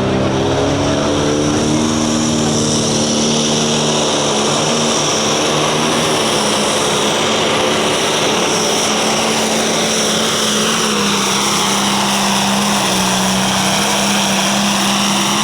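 John Deere 5020 limited pro stock pulling tractor's turbocharged diesel running hard under load during a pull: a loud, steady engine note with a high whine above it, the pitch dipping slightly about two-thirds of the way through.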